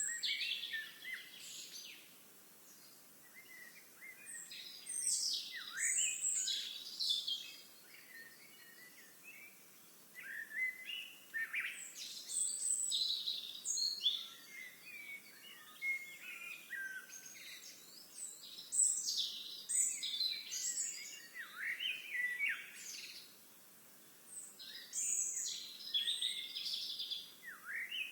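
Songbirds singing and chirping, several overlapping voices in busy phrases of a second or two with short lulls between, over a faint steady outdoor background.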